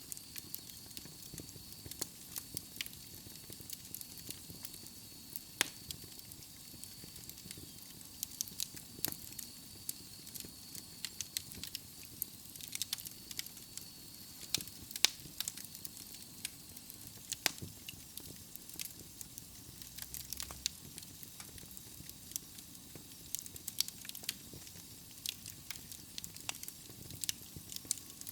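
Wood fire of burning logs crackling in a fireplace: irregular sharp pops and snaps over a soft steady hiss. A faint thin whistle runs for about the first half, then fades.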